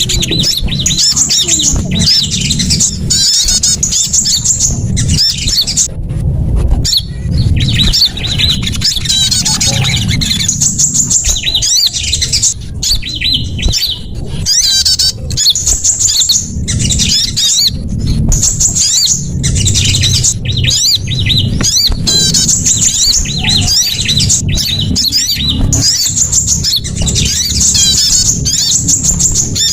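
Small songbirds giving rapid, high-pitched chirps and trills in quick repeated runs with brief pauses, a bird-lure call track, over a steady low rumble.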